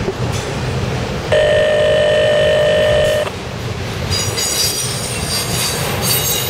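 Freight train of enclosed auto rack cars rolling past with a steady low rumble of wheels on rail. About a second in, a horn sounds one steady blast for about two seconds, and from about four seconds in the wheels squeal high and thin.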